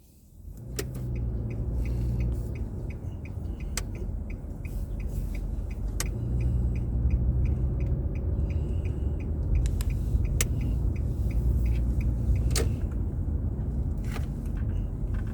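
Car cabin sound while driving: a steady low rumble of engine and road, with an even ticking about three times a second from the turn-signal indicator, plus a few isolated clicks.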